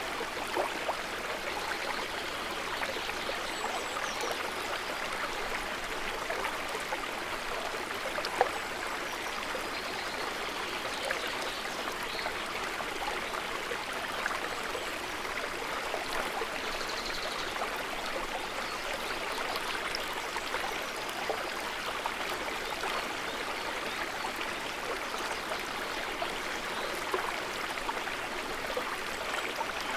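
Running river water, a steady wash of flowing water with many small splashes throughout and one sharper splash or click about eight seconds in.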